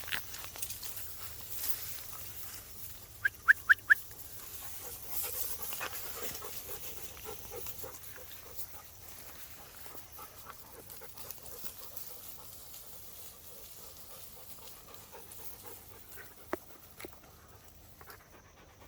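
A dog: four short, sharp high-pitched yelps in quick succession about three and a half seconds in, then quieter dog noises.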